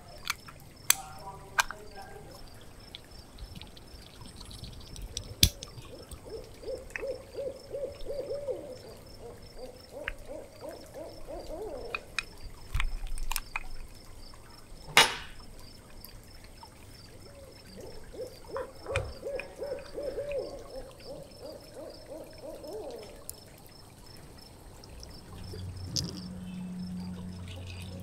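A bird hooting: two long series of rapid, evenly spaced hoots, each a few seconds long and rising in pitch at the end. Sharp clicks of small plastic model parts being handled come between them, the loudest about halfway through.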